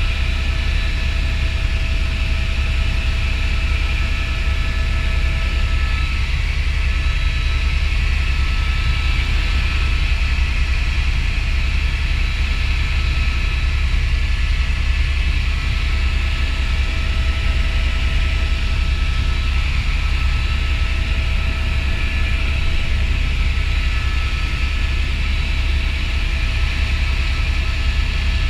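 Helicopter in flight, running steadily: a constant low drone with a faint steady whine over it.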